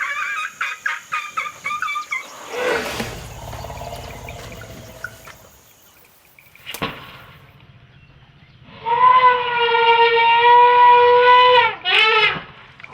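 Elephant calls: a run of short, high, pitched calls, a quieter low stretch, then a loud, even-pitched call lasting about three seconds near the end, followed by one short call.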